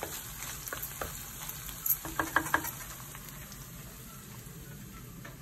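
Chopped ginger, garlic, green chillies and curry leaves sizzling in hot coconut oil in a chatti as a wooden spatula stirs them. There is a cluster of spatula scrapes and taps about two seconds in, and the sizzle eases toward the end.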